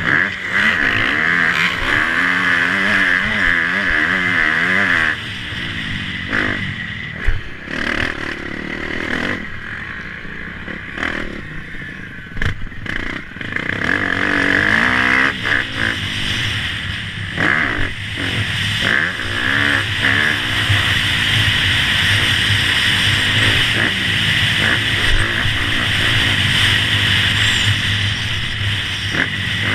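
Motocross bike engines revving, their pitch rising and falling again and again, strongest in the first few seconds and again about halfway through.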